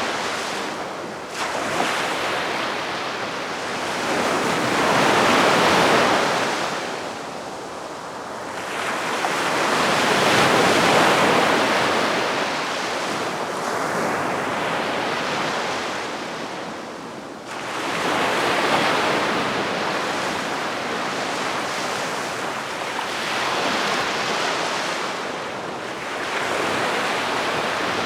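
Gentle sea waves breaking and washing up on a beach, the surf swelling and fading every several seconds, with one wave breaking more suddenly about two-thirds of the way in.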